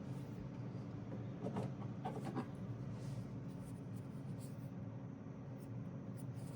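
DJI Power 2000 power station's cooling fans running steadily, a whirring hum with several low steady tones. It runs under a load of only about 1 W, a fan speed the owner considers abnormal for so small a load.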